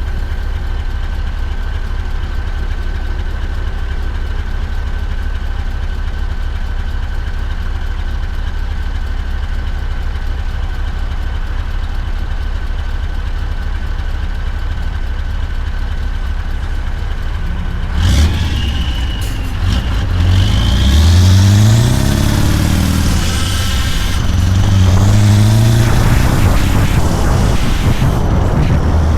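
Scania V8 truck engine running steadily at low revs, then picking up about two-thirds of the way in, its revs climbing twice in rising sweeps as the truck accelerates.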